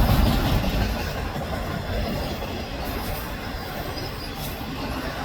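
Freight train of autorack cars rolling past, steady wheel-on-rail rumble and rattle, slightly louder in the first second.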